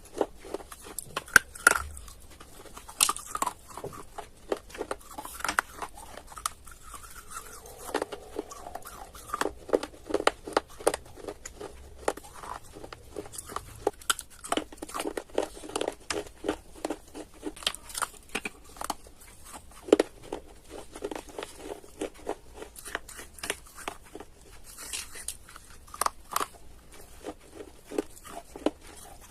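Close-up crunching and chewing of dry edible clay pieces, a dense irregular run of sharp bites and crackles.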